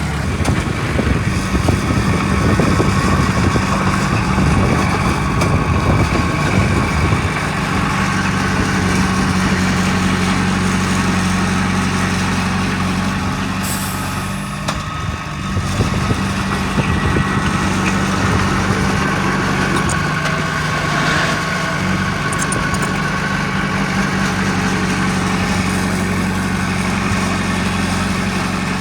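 Heavy diesel engine of earthmoving machinery running steadily, rougher for the first several seconds and then smoother. Just before halfway there is a short hiss and a brief dip in the engine sound.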